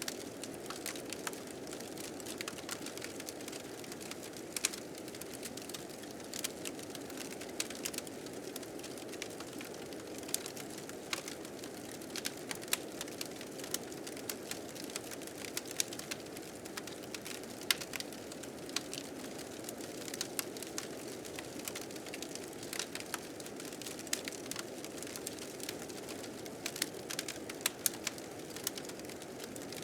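Steady blizzard wind with a wood fire crackling over it, sharp pops scattered irregularly throughout.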